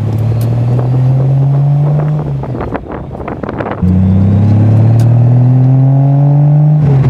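Triumph TR6's straight-six engine through a Monza exhaust with steel resonators, pulling with revs climbing, then dropping off for about a second off the throttle with a spatter of pops, before pulling hard again with revs rising and easing off near the end. Heard from the open cockpit, with some wind noise.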